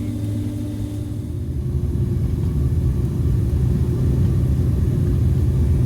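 Jet airliner cabin noise with the engines running: a steady low rumble that grows gradually louder. A faint steady hum drops out about a second and a half in.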